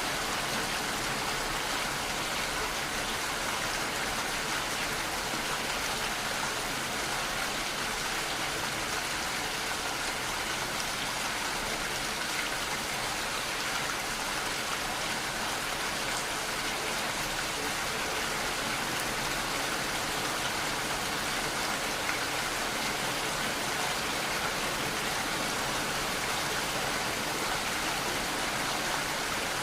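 Steady rain falling, an even hiss of drops with no let-up or thunder.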